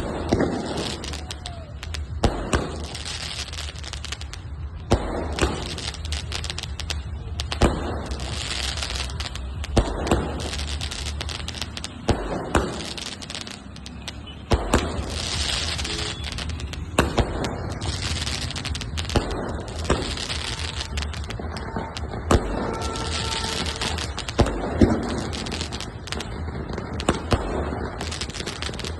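120-shot skyshot firework cake firing its shells one after another: a sharp bang about every two and a half seconds, each followed by crackling.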